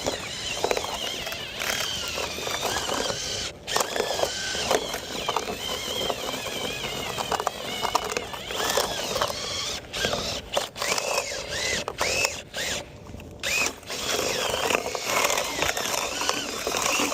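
Dryer-vent cleaning tool spinning in the vent exit, scraping against the duct with wavering high squeals, then stopping abruptly at the end.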